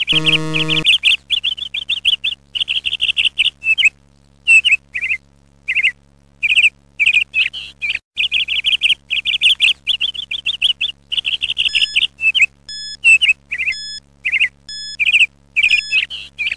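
Small birds chirping in rapid, high trills, as a continuous background track. Right at the start a short buzzer tone sounds for under a second as the quiz countdown reaches zero.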